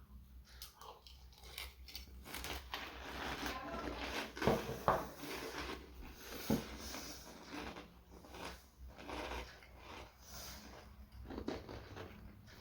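A person chewing a mouthful of Cap'n Crunch berry cereal in milk, with irregular crunching bites.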